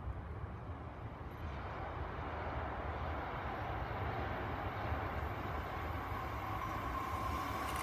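Kintetsu electric train, led by the Hakaru-kun electric inspection car, approaching along the track. Its rumble grows gradually louder, and a steady whine comes up near the end.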